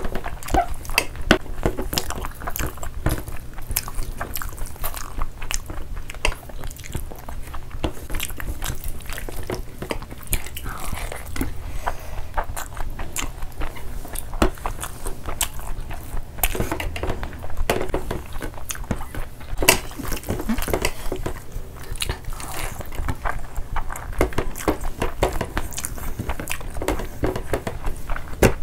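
Close-miked eating sounds of two people eating rice and curry by hand: chewing, biting and wet mouth sounds, with the squish of curry-soaked rice worked in the fingers. It comes as a run of short, irregular clicks over a steady low hum.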